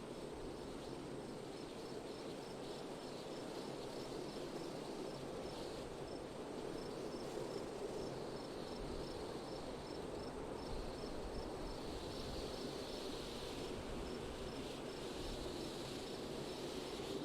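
Steady wind noise, with an insect chirping high and evenly, about three to four chirps a second.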